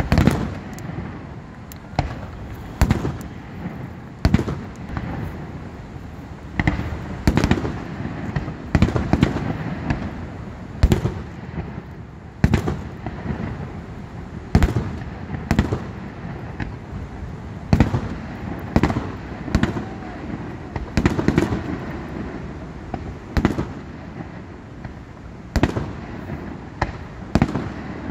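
Fireworks display: aerial shells bursting with sharp, echoing bangs, roughly one a second at irregular spacing, over a steady rushing background.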